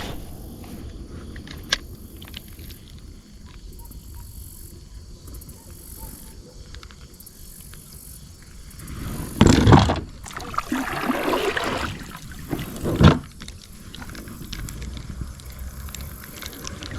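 Low steady rumble of wind and water around a kayak, with a few louder knocks and handling noises around the middle.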